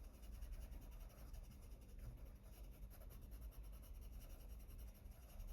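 Faint, steady scratching of a Polychromos coloured pencil being worked over paper while colouring.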